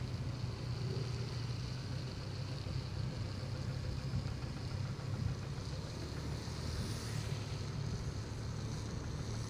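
Motorcycle engine running steadily at low revs while riding on a wet road, with an even hiss of tyres and air over the microphone.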